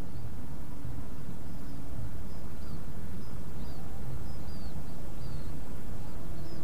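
Steady low outdoor rumble, with a small bird chirping again and again over it: short, high, falling chirps about once a second.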